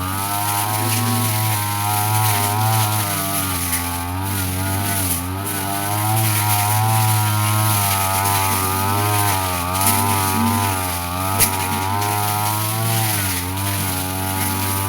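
Brush cutter engine running at high speed with its blade spinning as it cuts grass, the pitch dipping and recovering several times under load. A few sharp ticks sound over it.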